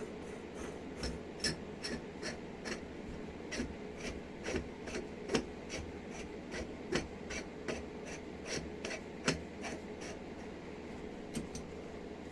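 Metal parts of a hydraulic jack being fitted together by hand: irregular light metallic clicks and scrapes, one to three a second, over a steady low background hum.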